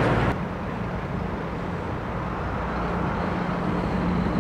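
A loud rush of road noise breaks off suddenly just after the start. It gives way to the steady, lower hum of a vehicle engine running, with a faint tone that grows a little stronger near the end.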